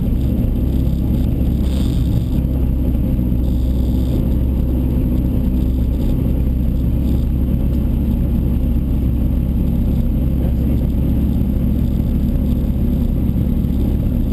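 Rally car engine idling steadily, heard from inside the stripped cabin.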